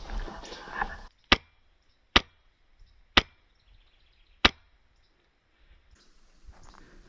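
Four single airsoft gun shots, sharp and separate, about a second apart, after a second of noise.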